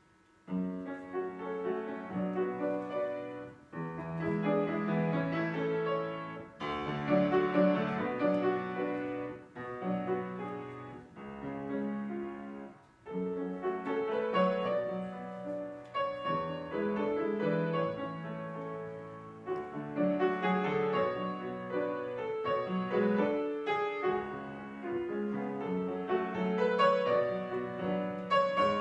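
Piano playing a classical piece in phrases, beginning about half a second in after a silence.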